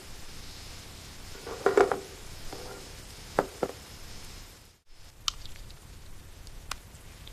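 Steady hiss of rain with a few light clinks and knocks: a short cluster about two seconds in and two sharp clicks about a second later. The sound cuts out briefly just past the middle.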